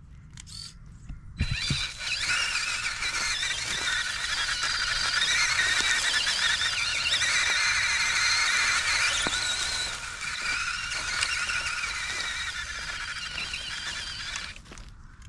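Electric motor and geartrain of a large RC trail truck whining under throttle, the pitch wavering up and down as the throttle changes. It comes in about a second and a half in and drops away near the end.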